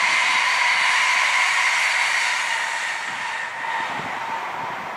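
ICE high-speed electric train passing at speed: a steady rushing noise with a high whine in two pitches that sinks slightly as the train moves away. It fades about three and a half seconds in.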